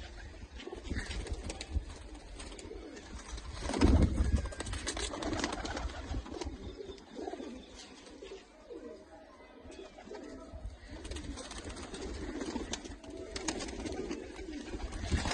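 Pigeons cooing, with scattered light clicks and a brief louder low sound about four seconds in.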